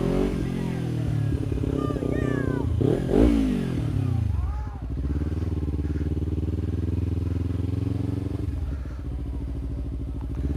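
Kawasaki Ninja 300's parallel-twin engine running at low speed, its revs rising and falling several times. The biggest and loudest rise and fall comes about three seconds in, and the engine settles to a steadier note after about five seconds.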